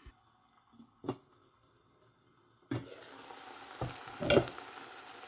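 Onions and tomatoes sizzling in oil in a steel pot, the steady hiss starting suddenly about halfway through. A few knocks of cookware against the pot come over the sizzle, and one short knock comes about a second in.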